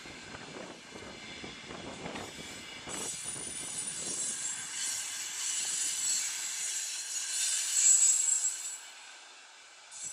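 Passenger train hauled by an EP2K electric locomotive running on the rails, growing louder with a high, steady squeal that peaks about eight seconds in and then falls away.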